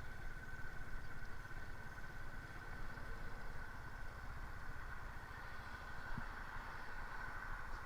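Motorcycle engine running steadily while riding, a continuous low rumble with a steady high whine over it.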